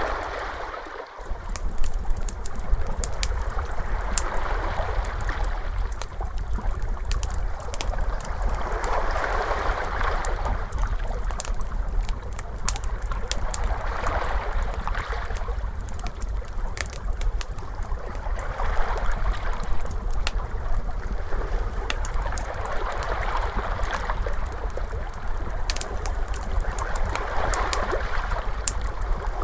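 Crackling fire mixed with ocean waves: sharp crackles and pops scattered throughout over a wash of surf that swells and recedes about every four to five seconds, with a steady low rumble underneath. The sound dips briefly about a second in.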